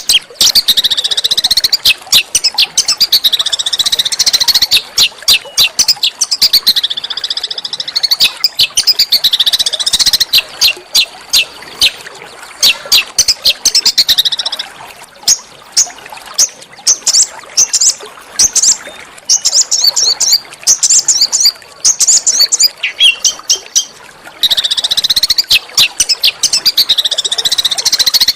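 A small songbird's fast, harsh song of rapid sharp high notes in looping phrases of about two seconds; midway it breaks into a run of separate short chips, and the dense song comes back near the end.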